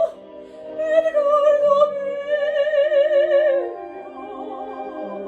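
Operatic soprano singing, with a brief break and then a long held note with wide vibrato that slides down to a lower note a little before the end, over sustained instrumental accompaniment.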